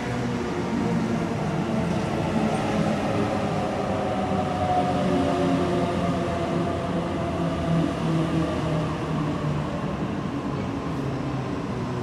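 Sydney double-deck electric suburban train moving slowly past the platform at close range: a steady rumble of wheels on rail with the hum of the traction motors, holding several even tones.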